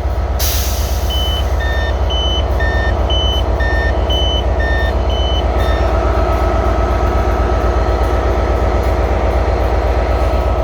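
Diesel multiple-unit train standing at the platform with its engines idling, while its door-closing warning sounds as a string of alternating two-tone beeps for about five seconds. After the beeps stop the engine hum goes on steadily with a faint high whine.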